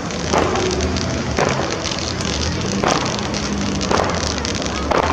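Fireworks display: about five sharp bangs of bursting shells, roughly one a second, over a continuous crackle.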